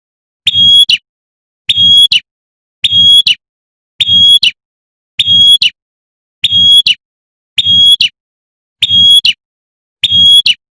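Female prinia (prenjak) giving its call to summon a male: a short, sharp, high note repeated identically about every 1.2 seconds, as a looped lure recording.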